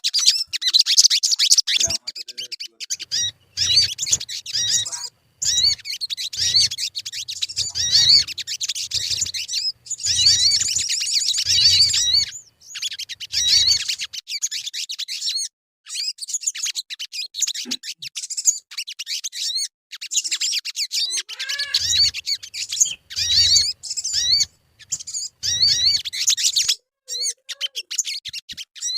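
Sogon (sunbird) song: rapid, high-pitched twittering and chirping in bursts of one to three seconds, separated by short pauses.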